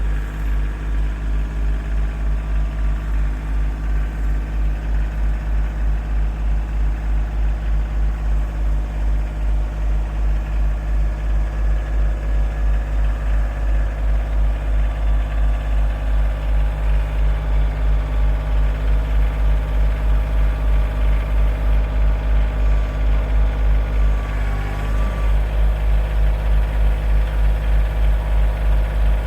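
Tractor engine running steadily at idle with an even low throb, dipping briefly about three-quarters of the way through.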